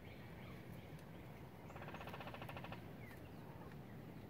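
A bird gives a rapid rattling burst about a second long, near the middle, over faint scattered songbird chirps.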